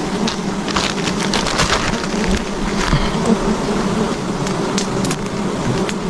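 Swarm of wild honeybees buzzing in a steady drone, with scattered sharp clicks and crackles over it.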